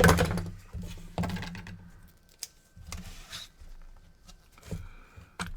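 Hands working on an opened PS4 and a roll of tape: scattered clicks, taps and rustling, loudest at the start, over a faint steady hum.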